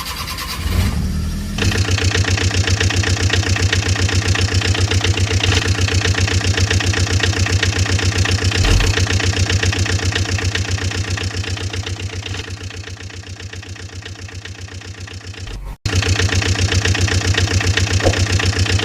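Vehicle engine running with a fast, even putter, louder from about a second and a half in. It sags slowly, cuts out for an instant about three-quarters of the way through, and comes straight back at full level.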